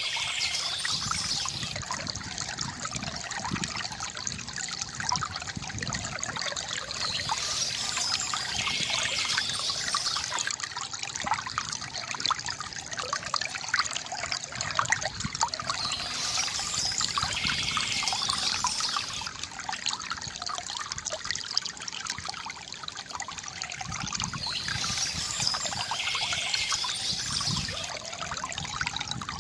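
Water trickling and gurgling steadily from a bamboo fountain, with a brighter hissing patch recurring about every nine seconds.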